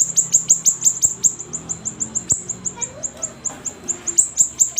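Siri-siri songbird calling in a rapid run of short, very high chips, each sweeping downward, about six to eight a second, with a few brief breaks. The bird is in full, active voice ('gacor').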